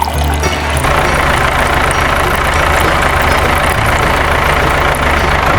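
An engine running steadily at an idle-like pace, with a fast even pulse, starting about a second in.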